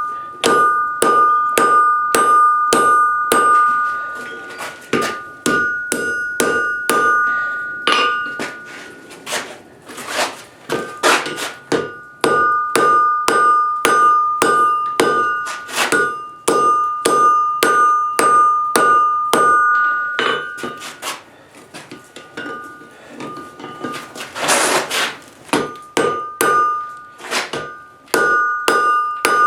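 Hand hammer striking hot steel on an anvil at a steady pace of about two or three blows a second, each blow leaving a high, clear anvil ring. The blows turn lighter for a few seconds near the start, and a short burst of noise comes near the end.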